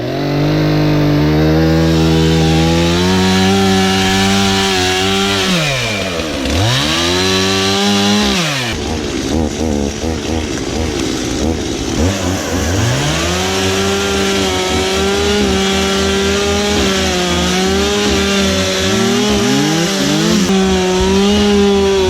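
Stihl two-stroke chainsaw revved to full throttle and held there. The engine note drops and climbs back up about six seconds in, falls away to lower revs for a few seconds, then climbs again and holds high with brief dips.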